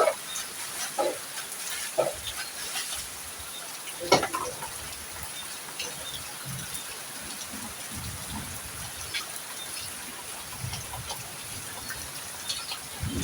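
Heavy rain falling steadily as an even hiss, with scattered drips and taps.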